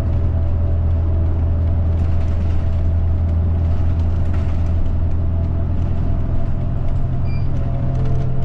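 Route bus running, heard inside the passenger cabin: a steady low engine drone with a faint higher hum and occasional light rattles.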